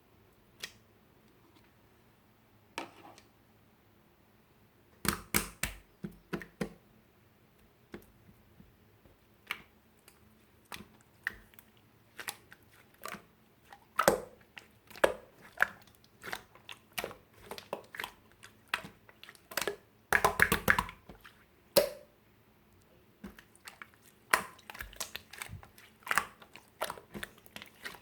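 Blue-and-white marbled slime being squeezed and poked by hand, giving irregular sticky clicks and pops that come in clusters, with a dense run of them about twenty seconds in.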